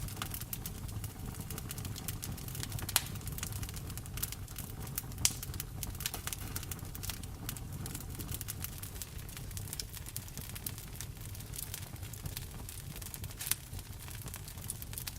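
Wood fire in a fireplace crackling: constant small clicks with a few sharper pops about 3, 5 and 13 seconds in, over a steady hiss of rain.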